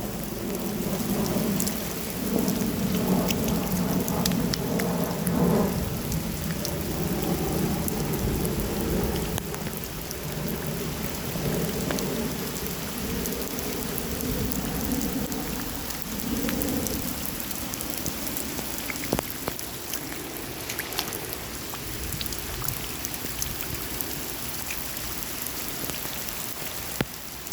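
Steady heavy rain falling on surfaces, with scattered drop ticks. A low rumble runs through the first half and fades out about two-thirds of the way in.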